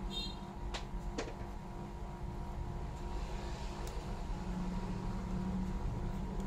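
Steady low background hum with a few sharp clicks, twice about a second in and once near four seconds: a tablet's plastic case being pried apart at its clips.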